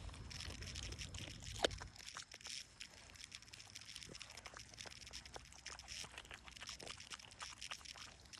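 Dog chewing a chick: faint, irregular crunching and crackling clicks, with one sharper click about one and a half seconds in.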